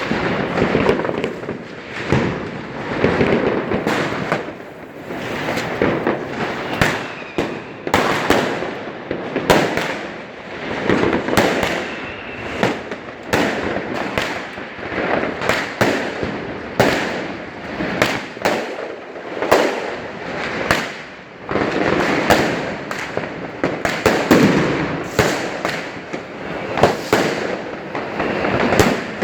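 Many fireworks and firecrackers going off at once: dense, irregular sharp bangs over a continuous crackling rumble.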